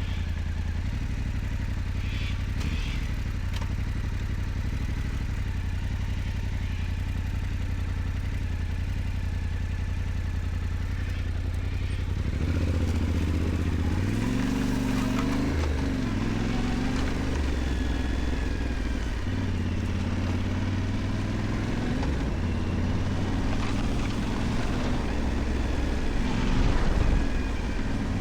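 Yamaha Ténéré 700's parallel-twin engine running at low, steady revs, then pulling harder from about twelve seconds in, its pitch rising and dropping repeatedly as the bike picks up speed.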